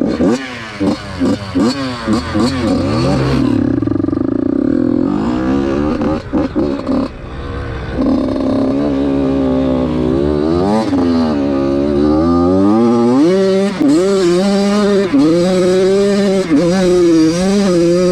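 Dirt bike engine revving hard, its pitch jumping up and down with quick throttle blips in the first few seconds, then rising in long sweeps and holding a higher, wavering pitch near the end.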